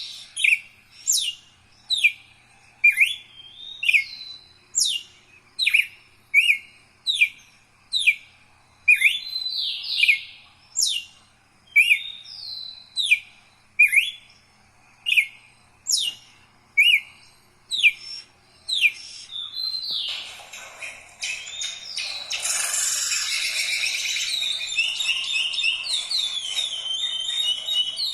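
Songbird singing: sharp, high, falling whistled notes repeated about once a second, breaking about two-thirds of the way through into a rapid, continuous warbling song.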